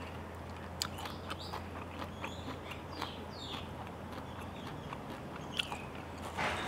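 Close-miked chewing of a mouthful of spicy salad with rice noodles and raw leucaena shoots: soft wet mouth sounds with scattered small clicks and crunches.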